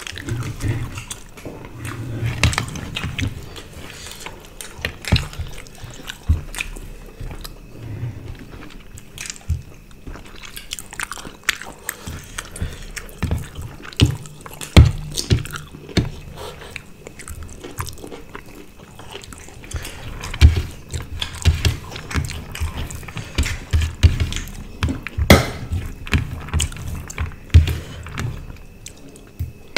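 Close-miked chewing and biting of two people eating rice, roast chicken and curry by hand, with a steady run of irregular mouth clicks and smacks, the sharpest about 25 seconds in.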